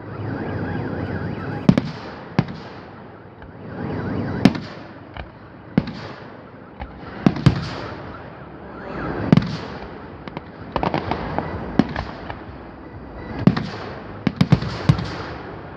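Fireworks display: shells bursting with sharp bangs every one to two seconds, with a rolling rumble and crackle between them, and a quick cluster of bangs near the end.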